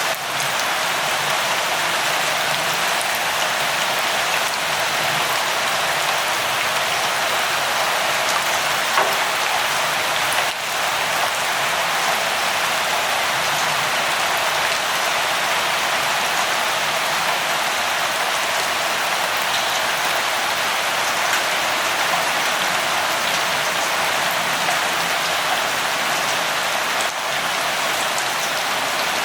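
Steady rain falling, an even hiss of rainfall with scattered drops ticking on a surface.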